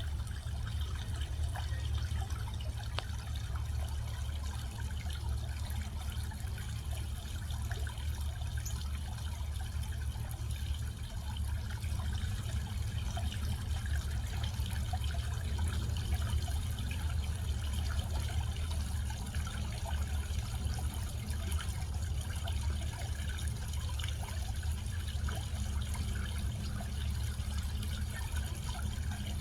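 Water fountain running, a steady splashing and trickling of water with a constant low rumble underneath.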